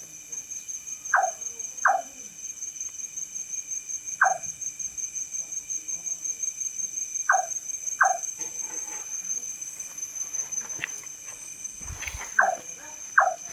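Large-tailed nightjar calling: seven short, sharp notes that fall in pitch, mostly in pairs less than a second apart, with a few seconds between the pairs. A steady high-pitched insect trill runs beneath.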